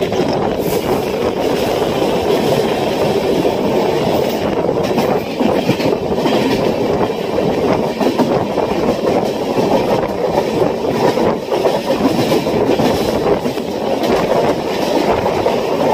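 Express train coaches running along the track, heard from an open coach door: a steady rumble of wheels on rail with scattered clicks over the rail joints and points.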